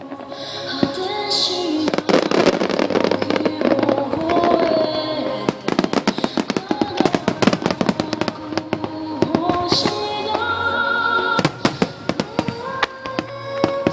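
Fireworks shells bursting in rapid, overlapping succession over loud music played to accompany the display.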